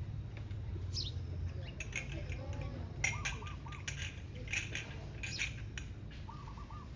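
House sparrows chirping: a falling chirp about a second in, then a busy run of short, sharp chirps that eases off near the end. A steady low rumble runs underneath.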